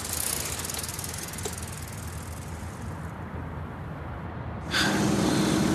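Car engine running steadily, growing louder about five seconds in.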